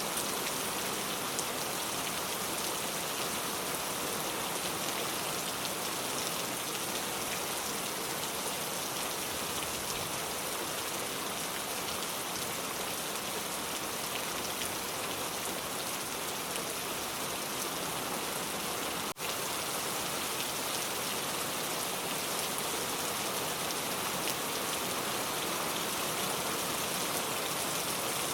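Steady rain falling, an even, dense hiss of drops striking surfaces. There is a split-second dip in level about two-thirds of the way through.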